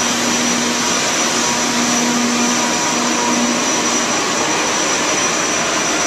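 German ICE electric high-speed train rolling slowly past along the platform: a loud, steady rush of noise with a thin high whine over it, and a lower hum that stops about three and a half seconds in.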